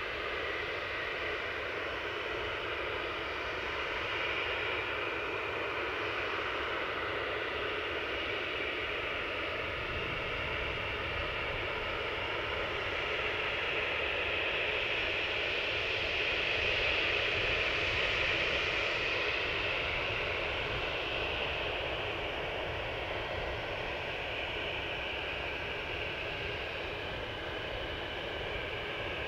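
Aircraft turbine engines running: a steady rush with a high whine that swells slightly around the middle and then eases.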